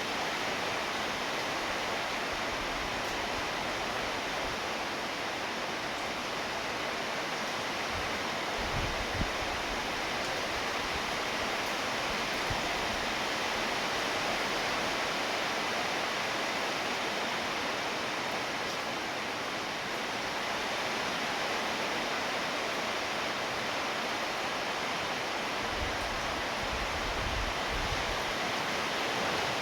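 Steady heavy rainfall, an even hiss of falling rain that holds at one level throughout, with a few brief low thumps about a third of the way in and again near the end.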